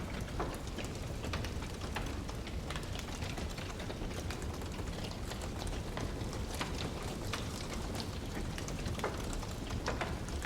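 Wood fire crackling in a fireplace: irregular sharp pops and snaps over a steady low rushing noise.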